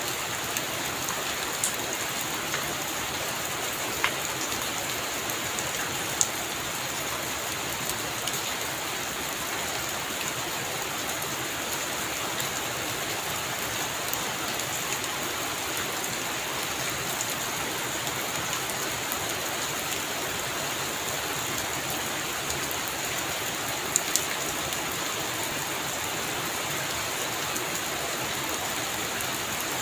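Heavy rain falling as a steady hiss, with a few sharper drop ticks standing out, one about four seconds in, one about six seconds in, and a close pair near the end.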